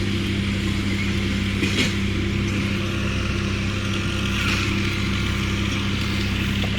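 An engine running steadily at an even pitch, with a short faint knock about two seconds in.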